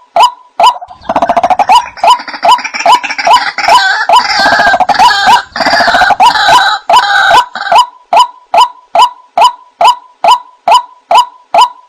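White-breasted waterhen lure call: a steady series of short calls, about two a second, with a louder, denser chattering stretch from about a second in to near the end.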